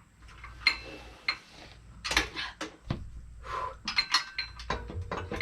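Metal hand tools clinking and tapping against engine brackets while the engine accessories are being taken apart: a run of irregular sharp clinks, some with a short ringing note.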